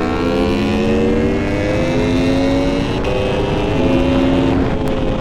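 Aprilia Tuono V4 motorcycle engine pulling hard in gear, its pitch rising steadily, with a gear change about four seconds in.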